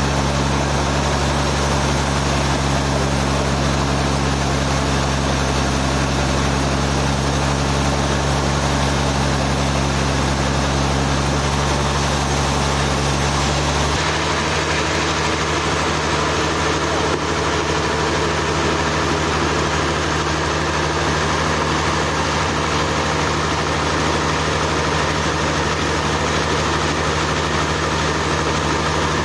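Sawmill machinery running with a steady engine drone; about halfway through the sound changes abruptly to a different steady engine pitch.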